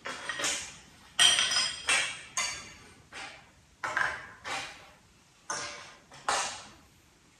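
Metal parts and tools clinking and tapping: about a dozen irregular knocks, some ringing briefly, the loudest a ringing clink just over a second in.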